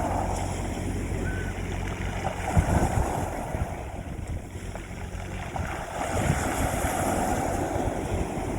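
Sea waves washing onto a beach, swelling twice, about two and a half seconds in and again about six seconds in. A steady low hum runs underneath.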